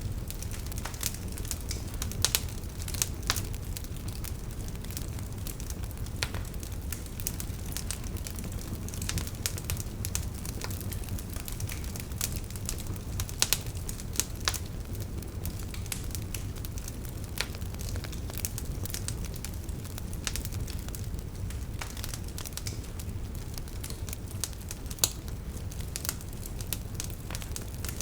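Campfire crackling: wood burning with a steady low rumble and sharp pops and snaps at irregular intervals.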